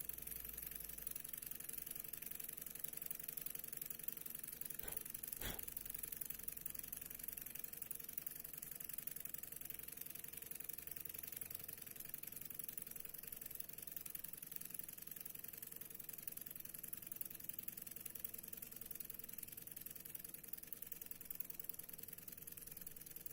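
Stirling engine running smoothly and steadily, with two short clicks about five seconds in.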